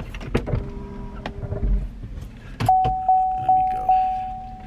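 A vehicle warning chime dinging four times, evenly spaced at about two and a half a second, each ding ringing out, from the 2016 Chevrolet Tahoe. Before it come a few light clicks.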